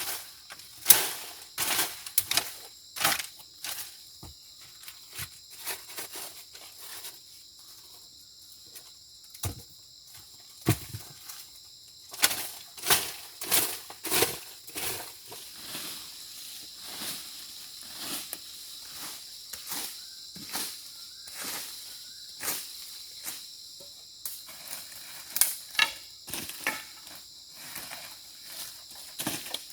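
Irregular knocks, scrapes and rustles from handwork, some sharp and loud, over a steady high-pitched insect chorus.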